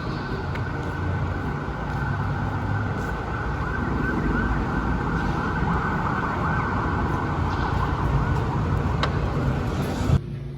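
Steady road noise of a moving vehicle, with a siren wailing up and down through the middle; the sound cuts off abruptly near the end.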